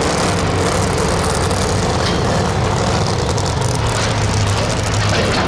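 A super modified two-wheel-drive pulling truck's engine running loud and steady.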